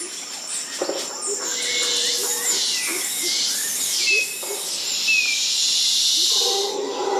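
Forest wildlife sounds: a bird repeating a short, falling high call over a steady high insect drone, with a loud, high buzzing chorus swelling through the middle. A lower, drawn-out animal call begins near the end.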